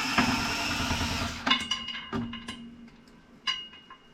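A small electric tool motor runs for about a second and a half and stops. Then come several light metallic clinks and taps, some of them ringing briefly.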